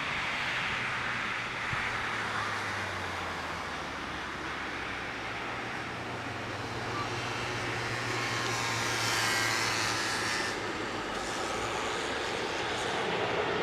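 Jet engine noise from a Boeing 777-300ER's GE90 turbofans at takeoff: a steady rumble with a hiss that swells and fades again around the middle.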